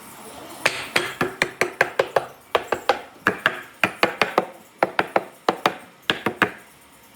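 A quick series of sharp knocks on wood, about five a second in uneven runs, like a tool striking timber, stopping near the end.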